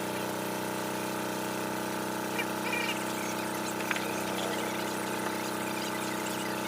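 Electric motor of a power tool running steadily with an even hum, with one sharp click about four seconds in.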